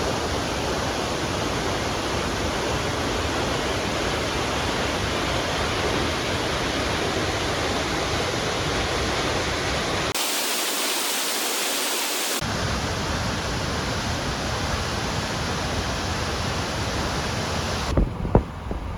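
Waterfall rushing steadily. The sound cuts off about a second before the end, followed by a few knocks.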